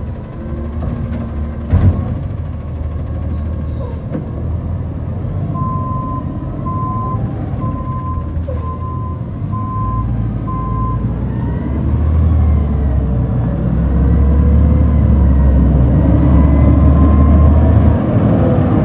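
Garbage truck's diesel engine running, with a sharp clank about two seconds in and its backup alarm beeping six times at about one beep a second midway. The engine then grows louder near the end.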